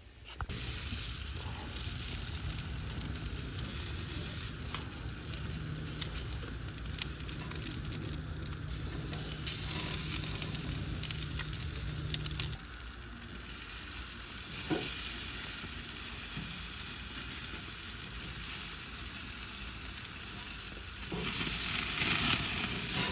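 Oiled, adobo-seasoned chicken thighs sizzling on a hot grill, a steady crackle with scattered small pops. A low hum underneath stops about halfway through, and the sizzle grows louder near the end.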